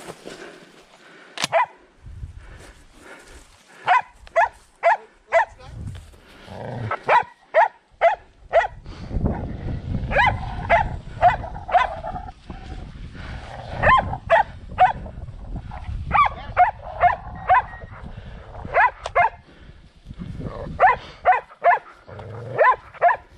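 Hunting dogs barking in quick runs of four to six sharp barks, again and again, with a low rumble beneath from about nine seconds in.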